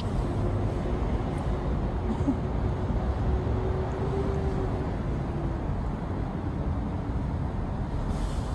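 Steady low outdoor rumble of street noise, with a faint steady hum over it for about the first five seconds.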